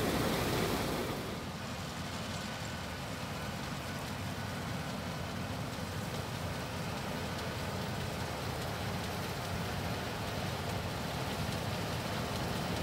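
Claas Lexion 770 TT combine harvester running steadily while harvesting, a continuous noisy rush with a faint engine hum underneath; the sound eases slightly about a second in.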